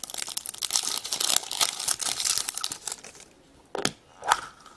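Crinkly wrapper of a surprise toy pack being torn open and crumpled by hand for about three seconds, then two short knocks near the end.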